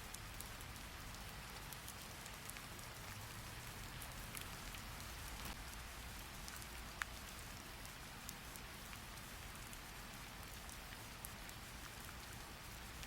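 Steady rain falling, with scattered drop ticks and one sharper click about halfway through.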